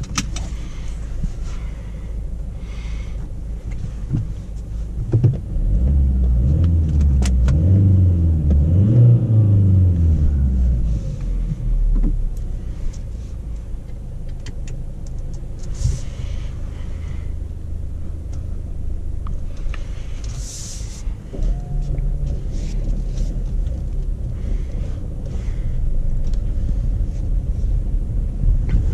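Kia XCeed's 1.6 CRDi four-cylinder turbodiesel running at a steady idle with the car standing still, heard from inside the cabin. About five seconds in it is revved a few times, its pitch rising and falling, then it settles back to idle about eleven seconds in. A few light clicks come from the cabin.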